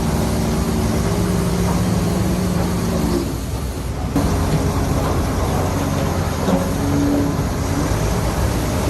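Heavy diesel engine of earthmoving machinery running under load, its note dropping briefly about three seconds in and then picking up again.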